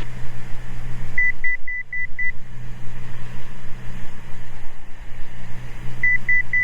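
Altitude alerter beeping in a light aircraft's cockpit: a quick run of five short beeps at one pitch, about four a second, starting about a second in, and another run starting near the end. It signals 1,000 feet to go to the selected altitude during the descent. Under it runs the steady drone of the Cessna 206 Stationair's piston engine in the cabin.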